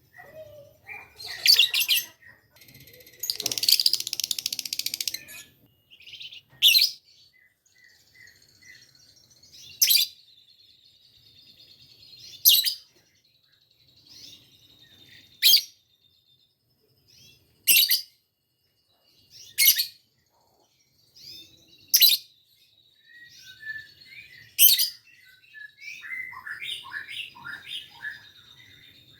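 A lovebird calling: short, shrill, sharp calls repeated every two to three seconds, a longer harsh buzzy stretch a few seconds in, and a quick run of chirps near the end. The bird is learning to 'ngekek', the lovebird's long chattering trill.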